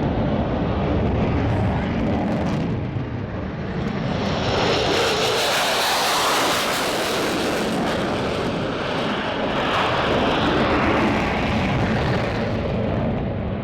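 Military fighter jet engines roaring as the jets take off. The noise turns brighter and hissier from about four seconds in, eases briefly, brightens again a few seconds later and settles back into a lower rumble near the end.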